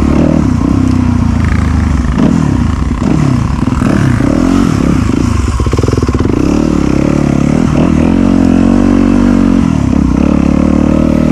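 Dirt bike engine revving up and down over and over, its pitch rising and falling as the rider works the throttle on a muddy enduro trail, with a steadier stretch of revs near the end.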